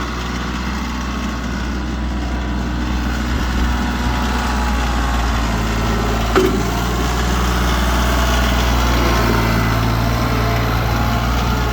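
Tractor engine running steadily at a low drone, with a single brief knock about halfway through.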